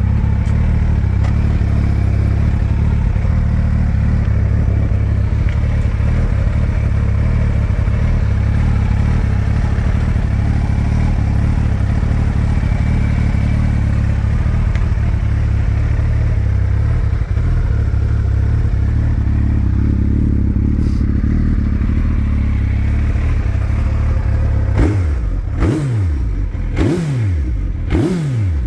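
2005 Suzuki Hayabusa's 1299 cc inline-four engine idling steadily. About 25 seconds in, the throttle is blipped several times in quick succession, the revs rising sharply and falling back each time.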